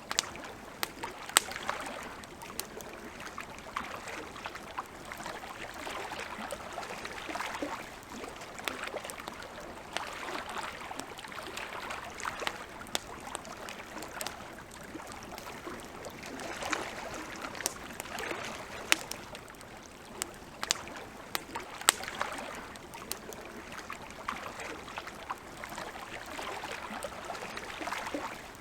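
Wood campfire crackling with frequent sharp pops and snaps, over soft lapping water that swells and fades every few seconds.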